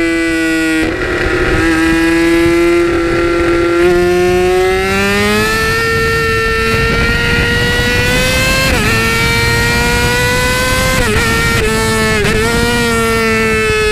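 Yamaha R6 inline-four engine at high revs under way, its note slowly climbing in pitch, with a few brief dips and recoveries near the end, over wind and road rush.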